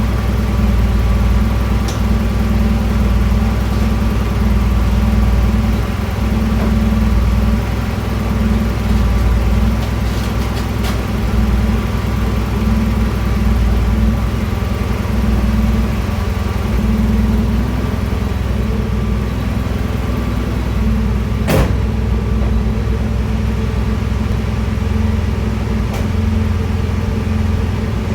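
A vehicle engine running steadily at a constant speed, with one sharp click about three-quarters of the way through.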